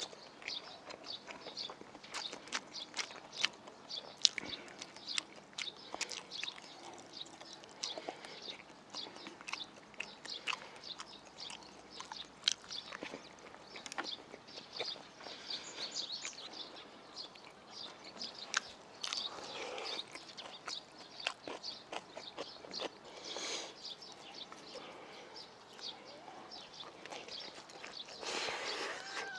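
Close-miked chewing of soft rolled omelette made from ostrich egg, with many sharp wet mouth clicks and smacks as he eats bite after bite.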